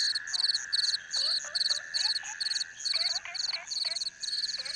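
Night insect-and-frog chorus: insects chirping in a high, even pulse about three times a second over a steady high insect trill, with frogs giving short rising calls, mostly in the middle of the stretch.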